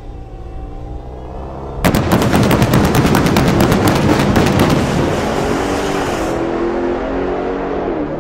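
Dodge Challenger SRT Demon 170's supercharged V8 at the start line, then launching at full throttle about two seconds in: a sudden, very loud, rapid crackle for about three seconds. It eases into a steadier engine note as the car runs down the drag strip.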